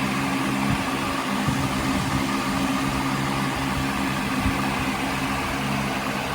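Small engine idling steadily, a low even hum that stops near the end, over a steady hiss of air.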